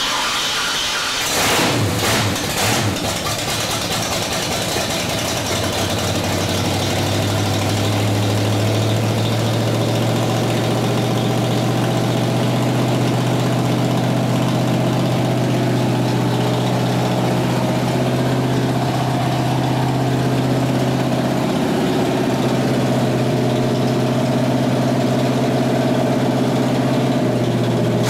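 Carbureted Ford 5.0 V8 with a .555-lift cam starting up on its first start after the engine swap, revving for the first few seconds and then settling into a steady idle.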